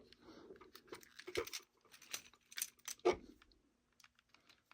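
Small irregular clicks and taps of a screwdriver and the plastic shell of a toy train locomotive being handled as its screws are taken out, a few louder ones in the first three seconds and quieter after.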